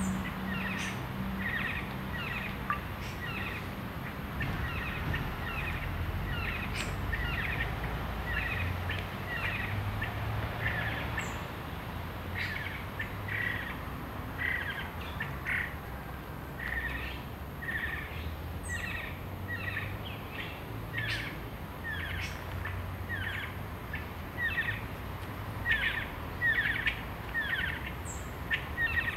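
Bird calling with a long series of short chirping notes, about two a second and sometimes in quick pairs, over a low background rumble.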